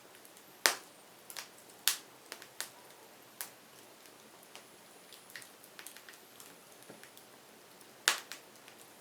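Burning firewood crackling: irregular sharp pops and snaps over a faint steady hiss, with the loudest pops about a second in, about two seconds in and near the end.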